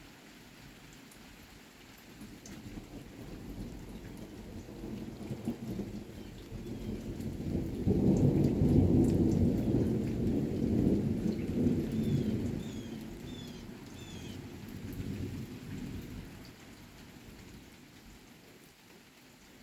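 A long rolling thunder rumble builds over several seconds, is loudest around the middle, and fades away, over a steady hiss of rain falling.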